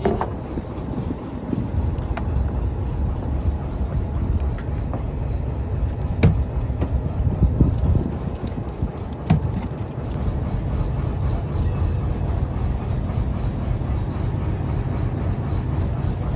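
Fishing trawler's engine running steadily, a low rumble with a few sharp knocks on board about six and nine seconds in.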